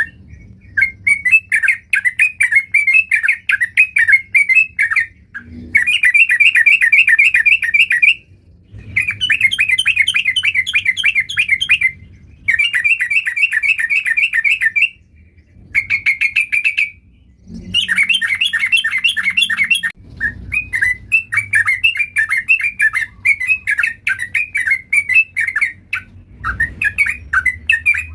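Yellow-vented bulbul singing loudly in rapid chattering phrases, each bout lasting a few seconds and broken by short pauses, with a long unbroken run near the end.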